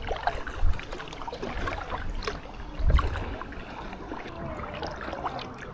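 Kayak paddle strokes in the water, with drips and trickles, and two low thumps about a second in and about three seconds in.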